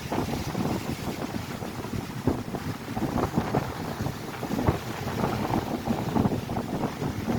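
Strong wind buffeting the microphone in uneven gusts, over the noise of lake waves breaking on the shore.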